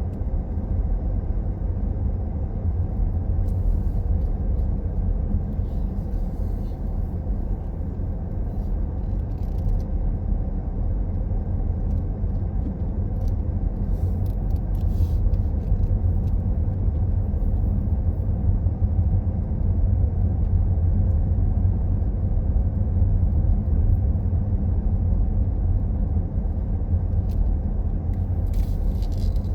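A car driving along a road, giving a steady low rumble of road and engine noise, with a few faint clicks or rattles now and then.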